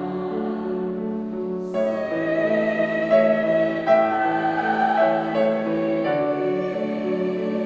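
Classical-style women's voices singing a Christmas carol medley together with piano accompaniment, holding long notes that move to new chords about two seconds in and again around six seconds.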